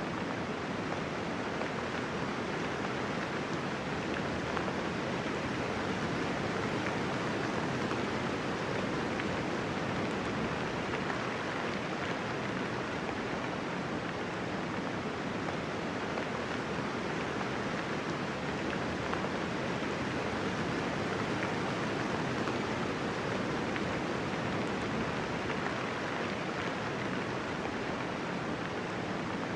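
Steady, gentle rainfall with no thunder: an even hiss of soft rain that holds constant throughout.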